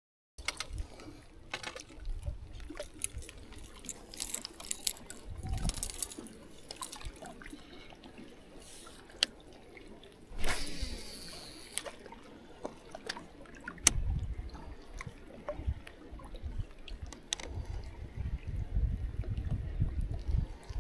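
Water trickling and splashing, with many scattered sharp taps and low rumbles coming and going. There is a brief louder rush about halfway through.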